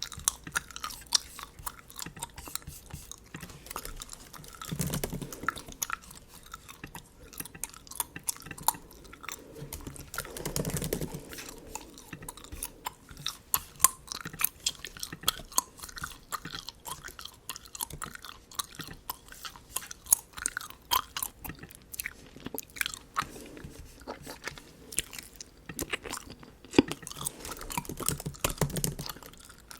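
Bubble gum chewed close to the microphone: a steady run of wet smacks and clicks, with a few fuller, deeper chews.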